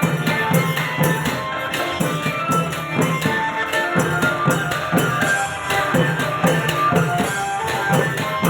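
Thai klong yao long-drum ensemble playing traditional procession music: drums beating a brisk, steady rhythm with cymbals striking on the beat, over a held melody line.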